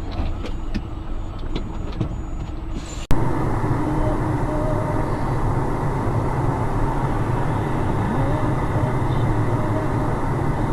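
Steady vehicle driving noise, engine and road rumble, as heard on a dash camera. For about the first three seconds there are light clicks and rattles over the rumble; then it cuts abruptly to a louder, even rumble.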